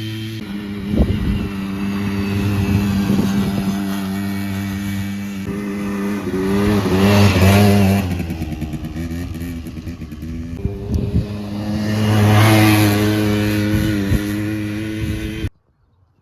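Quadzilla Stinger 100's 95.6cc two-stroke engine running, revving up twice, about seven seconds in and again about twelve seconds in. The sound cuts off abruptly near the end.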